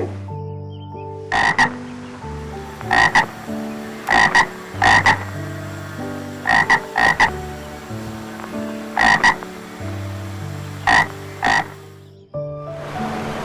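Frog croaking: short croaks, often in quick pairs, every second or two, over a backing of sustained music notes.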